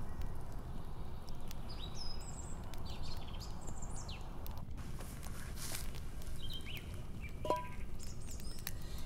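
Small birds chirping and calling in quick, short notes, with one clearer whistled call near the end, over a steady low rumble of outdoor ambience and scattered faint clicks.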